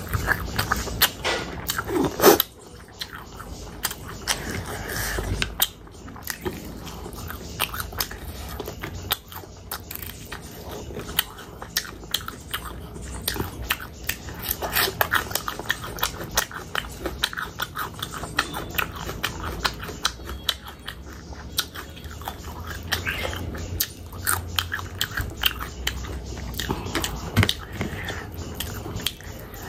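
Close-miked chewing of rice and oily pork pickle eaten by hand, with many sharp, wet mouth clicks and smacks throughout.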